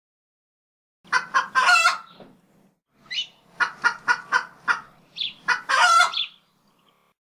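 A chicken cackling: two runs of short clucks, each ending in a longer drawn-out call.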